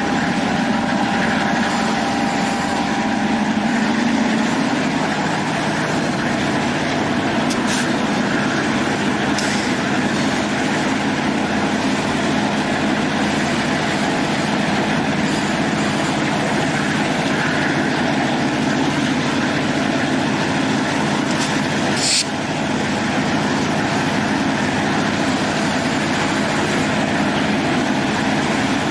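Passenger train under way: the steady running noise of steel wheels on track and the low drone of the diesel locomotives working ahead, heard from an open car platform. A few sharp clicks stand out, two about 8 and 10 seconds in and another near 22 seconds.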